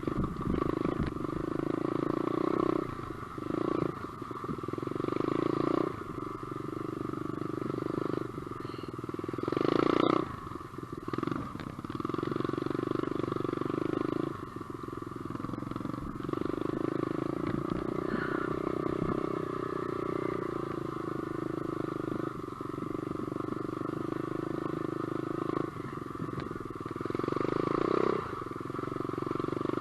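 SSR125 pit bike's 125cc single-cylinder four-stroke engine running while ridden, revving up and dropping back again and again as the throttle is opened and closed.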